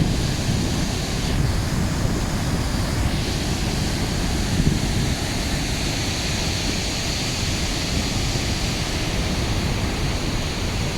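Thornton Force waterfall on the River Twiss, a steady rush of falling water in full flow.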